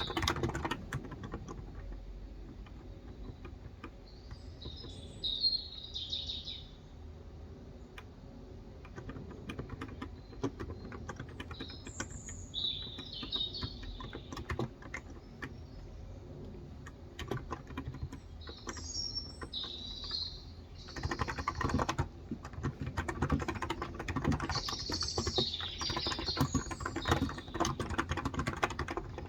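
Typing on a Cox Endeavor electro-capacitive (non-contact) tenkeyless keyboard with light 35 g switches: scattered keystrokes at first, then a dense run of typing from about twenty seconds in. Birds chirp in short bursts now and then behind it.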